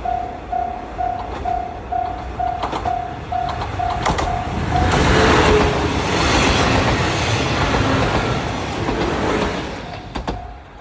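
Japanese level-crossing warning bell ringing about twice a second, then the Kiha 71 'Yufuin no Mori' diesel express passes for about five seconds, its wheels clattering over the rails, drowning out the bell before fading.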